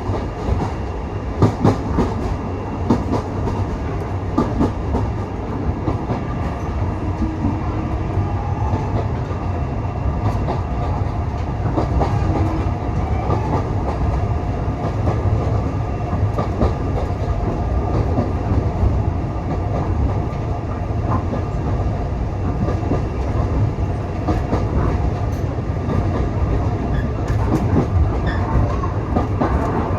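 Railway carriage running along the track: a steady low rumble with scattered clicks of the wheels over rail joints, heard from on board.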